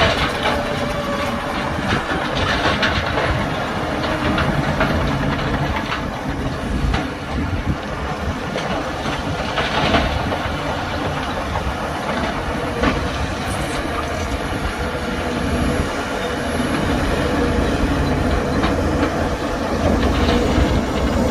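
Crawler bulldozer working: its diesel engine runs steadily while the steel tracks clank and rattle, with a few sharper metal knocks.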